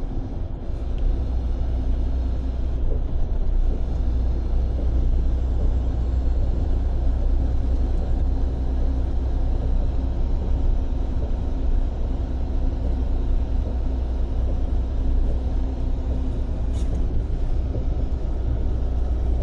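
Freightliner semi-truck cruising at highway speed, heard from inside the cab: a steady low engine and road rumble with a constant hum.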